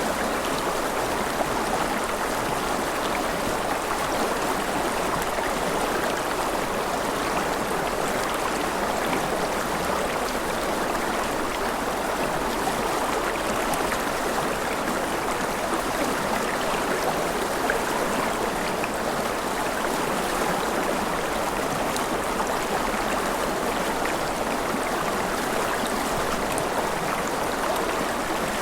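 Gentle rain falling steadily: an even hiss that stays at one level, with faint scattered drop ticks.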